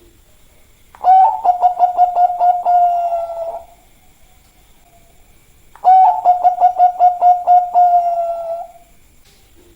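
Bangkok-type zebra dove (perkutut) cooing its song twice. Each phrase opens with a quick rising note, then runs into a fast string of short coos on one steady pitch that trails off after two to three seconds.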